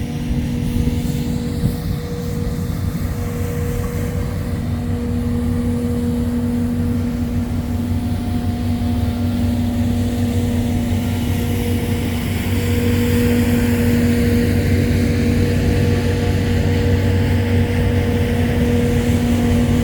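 Steady mechanical hum from a military helicopter's turbine running on the ramp, with constant low and mid tones, growing louder a little over halfway in.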